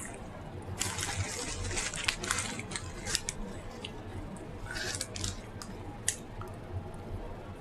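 Eating sounds of a person chewing: wet squishing and smacking with sharp clicks, busiest during the first three seconds and again about five seconds in.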